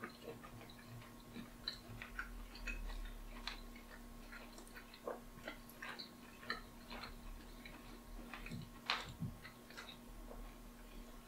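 A man chewing a large chunk of stewed beef with his mouth closed: faint, irregular wet clicks and smacks from the mouth, with a slightly louder one about nine seconds in.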